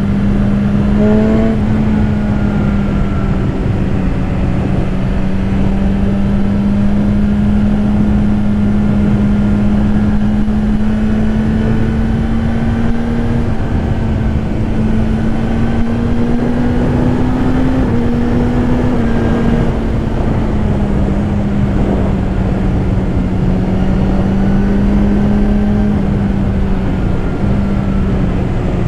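BMW S1000RR's inline-four engine running at a steady cruise, its pitch drifting gently up and down with the throttle, with wind buffeting the helmet microphone.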